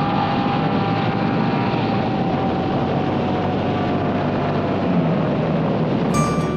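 Moto Guzzi V85's air-cooled V-twin engine running under a loud steady rush of wind noise while riding, its note slowly falling as the bike eases off. Acoustic guitar music comes in near the end.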